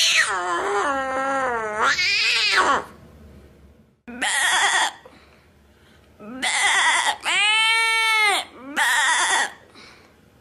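A man imitating animal calls with his voice. First comes a long, wavering, cat-like wail, then four shorter bleating calls with pauses between, one of them arching up and falling back in pitch.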